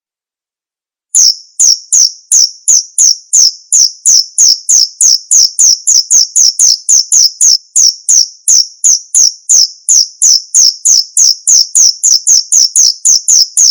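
Male cricket chirping: a loud, steady run of short, high chirps at about three a second, starting suddenly about a second in and stopping abruptly near the end.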